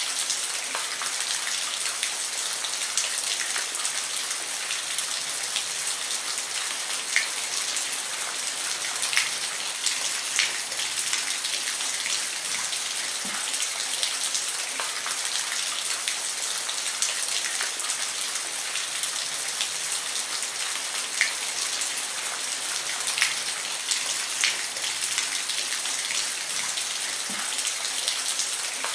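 Steady rain falling on a roof: a dense, even hiss with scattered louder drops tapping through it.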